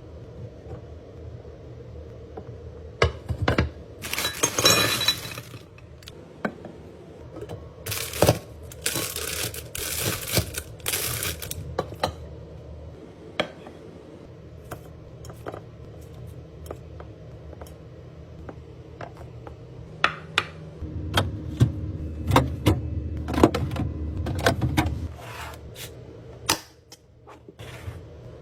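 Kitchen restocking handling sounds: containers, jars and packaging being picked up, set down and clinking, with sharp clicks and knocks throughout and short stretches of rustling noise about 4 seconds in and again from about 8 to 12 seconds. A low hum runs for a few seconds past the middle.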